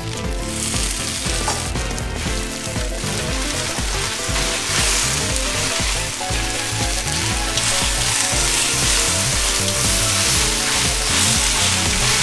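Flat rice noodles, beef and vegetables sizzling in a hot wok as they are stir-fried with chopsticks (beef ho fun); the sizzle swells about half a second in as a bowl of vegetables goes in, and keeps building.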